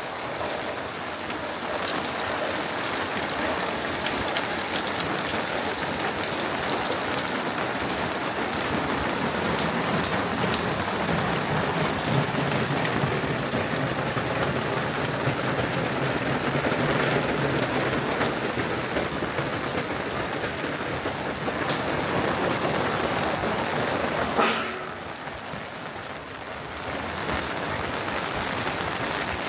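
Steady rain falling and pattering on surfaces. Near the end there is a sharp knock, after which the rain is quieter for a couple of seconds.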